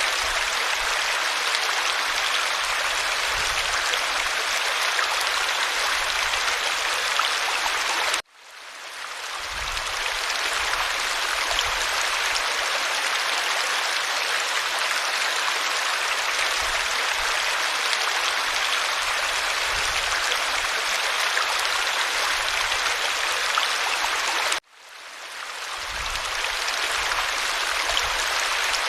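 Stream water flowing with a steady rushing sound. It cuts out suddenly twice, about eight seconds in and near the end, and fades back up within a second or two each time, like the joins of a looped recording.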